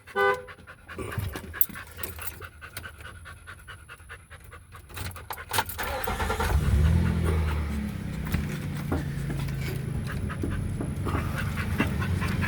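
A dog panting, with a vehicle engine's low rumble coming up about halfway through and carrying on steadily.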